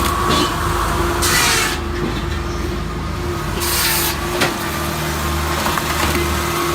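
Rapido Loco 20 firewood processor running, its Deutz diesel engine droning steadily under a steady whine, broken twice by a short loud hiss.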